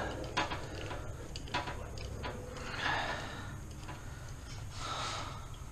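A few sharp light clicks and knocks of hand tools and metal parts being handled during engine disassembly, with two soft rushing sounds about three and five seconds in.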